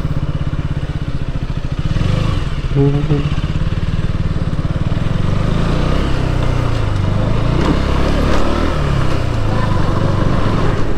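KTM Duke motorcycle's single-cylinder engine running while riding, its pitch rising and falling with the throttle.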